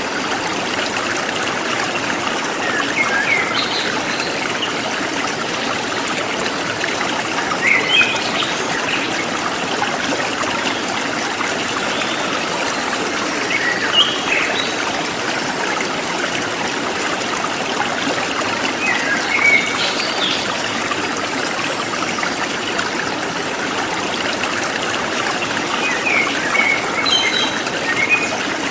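Forest stream trickling and flowing steadily, with short bird chirps breaking in every few seconds.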